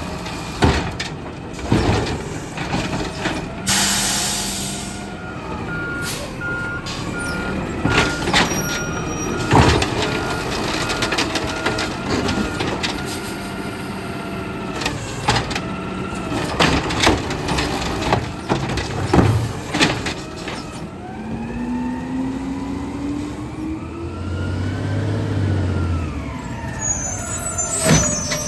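Automated side-loader garbage truck at work: the engine revs and the hydraulic arm whines as carts are lifted and dumped, with repeated bangs of cans slamming against the hopper. A burst of air-brake hiss comes about four seconds in, and a beeper sounds about once a second for several seconds.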